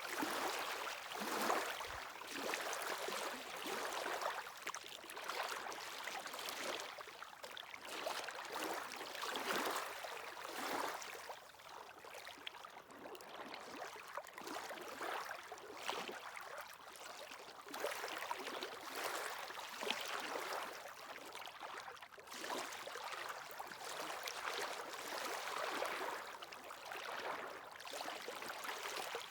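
Small waves washing and lapping on the shore, a continuous hissing wash that swells and falls back every second or two, without a deep surf rumble.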